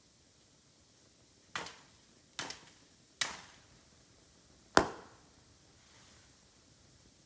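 Bamboo giving four sharp cracks at uneven intervals, each dying away quickly; the last, near the end, is the loudest.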